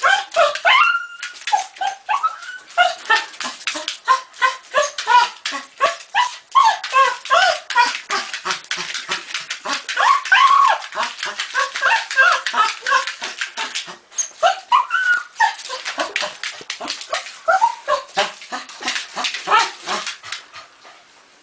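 A dog yipping and whining in rapid short calls, several a second, in excited reaction to a hedgehog; the calls stop shortly before the end.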